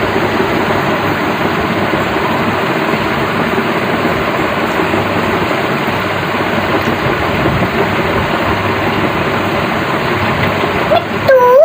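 Steady, loud machine-like running noise with no rhythm, and one short pitched call that bends in pitch just before the end.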